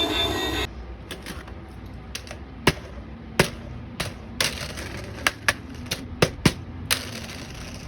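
Background music that cuts off under a second in, followed by about a dozen irregular sharp clicks and taps of small plastic toys being handled.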